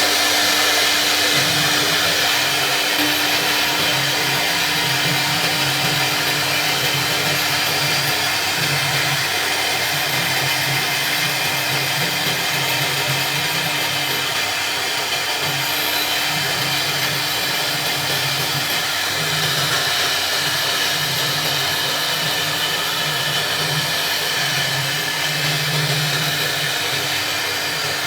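CNC router spindle running steadily at high speed with a constant whine, its bit cutting through thick acrylic sheet. A lower hum comes and goes every second or two as the machine works.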